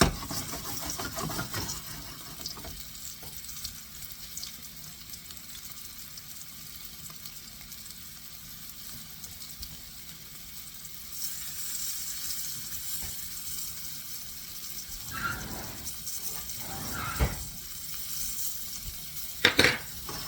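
Floured chicken breasts frying in smoking-hot oil in a pan: a steady high sizzle that gets louder about halfway through, with a few knocks near the end.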